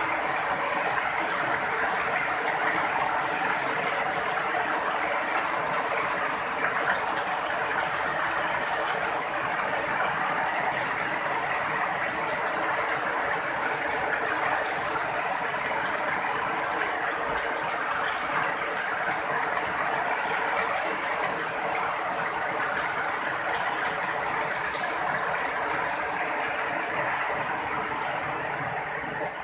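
Heavy rain, with streams of runoff pouring off a roof edge and splashing onto a concrete yard and into basins: a steady, dense hiss that fades near the end.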